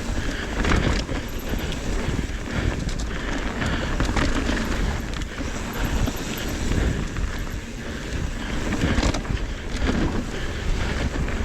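Mountain bike descending a rough dirt trail: tyres rolling over rough ground, with the bike rattling and clunking over bumps throughout and wind buffeting the microphone.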